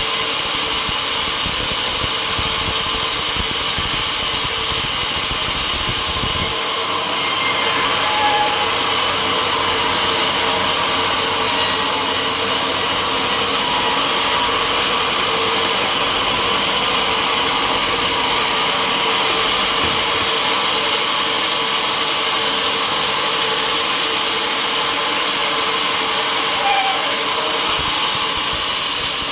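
Sawmill saw running steadily while cutting through a log, a loud even whine; a low rumble under it drops away about six and a half seconds in.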